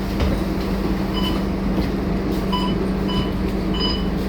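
Scania K230UB bus's five-cylinder diesel engine running steadily with a low hum, with short faint high-pitched peeps now and then.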